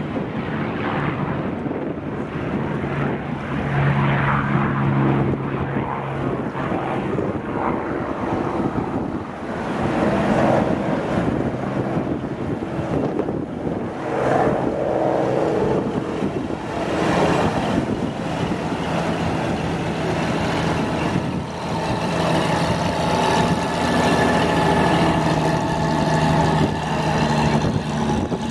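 Propeller aircraft engines running, a steady drone whose pitch shifts several times.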